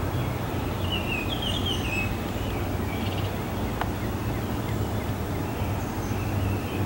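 A short run of small bird chirps about a second in, over a steady low hum, with a single sharp tick near the middle.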